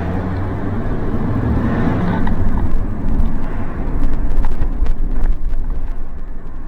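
Car driving slowly, heard from inside the cabin: a steady low engine and road rumble, with scattered short knocks and rattles from the bumpy way through.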